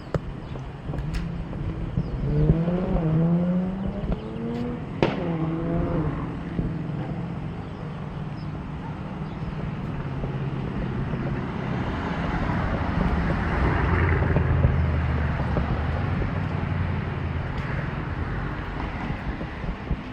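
An engine running steadily, its pitch rising a couple of times a few seconds in, and a louder low hum building near the middle.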